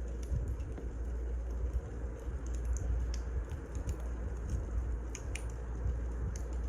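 Wood fire burning, with scattered sharp crackles and pops at irregular intervals over a steady low rumble.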